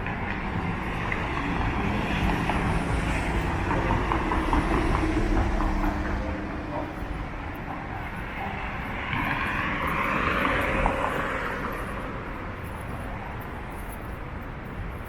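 City street traffic. A low rumble from a passing heavy vehicle builds over the first six seconds, then a louder rushing pass comes about nine to eleven seconds in, with a sharp knock near its end.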